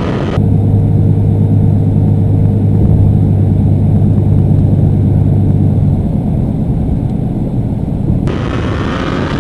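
A vehicle engine running steadily under way, a low drone heard from on board. Near the end the sound cuts abruptly to a different engine sound with more rushing noise and rising pitch.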